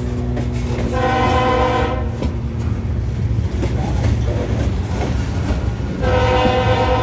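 Diesel freight locomotive's multi-chime air horn sounding twice, a blast of about a second and then a longer one starting near the end, over the steady rumble of the passing train.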